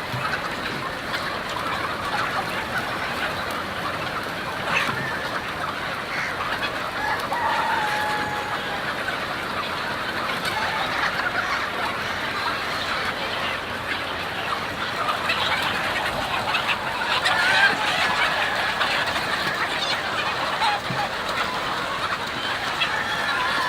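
A large flock of chickens in a poultry house, many birds clucking and calling at once in a dense, continuous din, with a few longer calls standing out above it.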